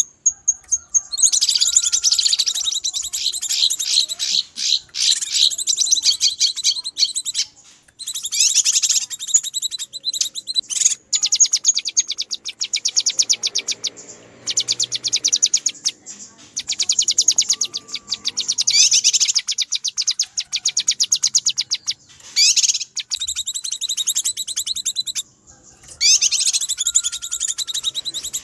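Cucak kinoi (a leafbird) giving noisy, agitated chattering calls: rapid, fast-repeated high notes in bursts of a few seconds with short pauses between them. This is the excited 'ribut' calling used to lure wild birds of the same kind.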